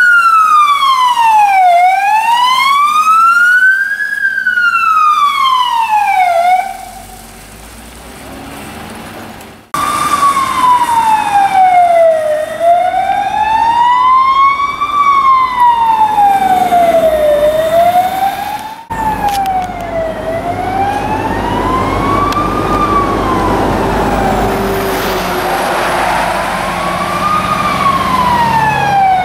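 Fire engine siren wailing, its pitch rising and falling in a slow cycle of about four seconds. It breaks off abruptly a few times, drops low for a few seconds, then comes back.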